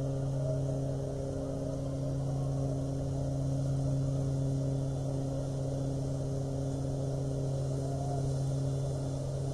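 The freighter H. Lee White's twin 20-cylinder General Motors diesel engines running, a steady low hum with a clear pitch.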